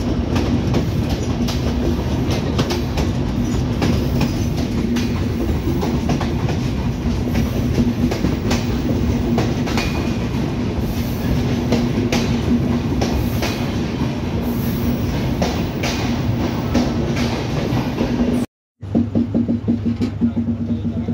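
Passenger train coaches rolling past, their wheels clicking over the rail joints above a steady rumble. About two seconds before the end the sound cuts out briefly, and a hum with a regular pulse follows.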